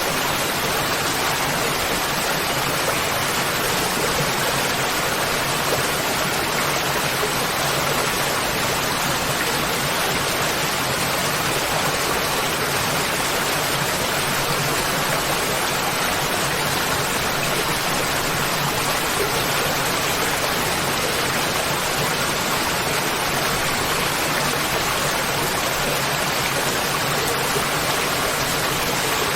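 Waterfall: water falling and rushing with a steady, unbroken hiss, spread evenly across high and low pitches and never changing.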